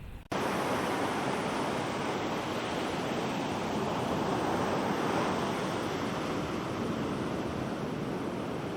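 Ocean surf rushing steadily, a dense even wash that starts abruptly a moment in.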